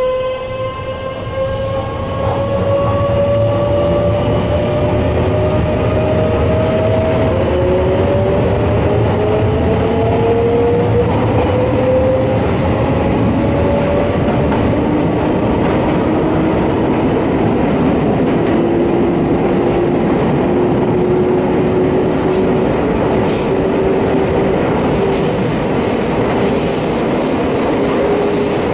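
Electric commuter train pulling away and accelerating into a tunnel, heard from inside the car: a motor whine rises in pitch in several steps over a steady rumble of wheels on rail. High-pitched squealing comes in near the end.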